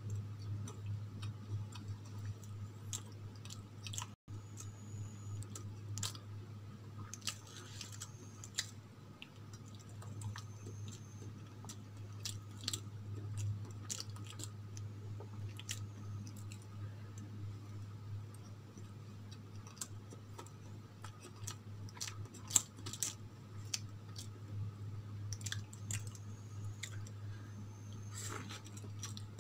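Close-miked eating sounds of soft steamed idli with chutney being chewed: wet mouth clicks and smacks at irregular moments. A steady low hum runs underneath.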